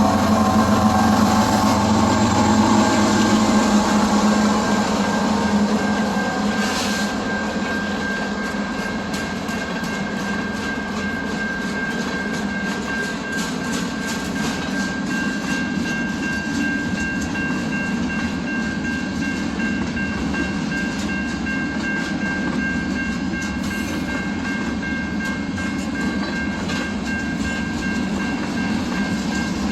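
A train passing close by, loudest with a low engine drone in the first few seconds. Then the railcars keep rolling past with a steady high-pitched squeal and rapid clicking of wheels over the rail joints.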